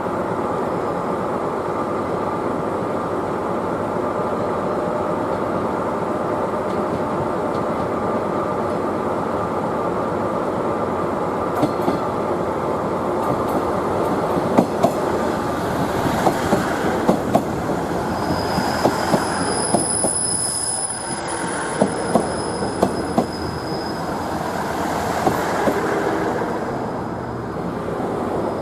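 A train of KiHa 110-series diesel railcars running on the track with a steady rumble. From about halfway through, the wheels click over rail joints, and a thin high wheel or brake squeal sounds for a few seconds a little past the middle.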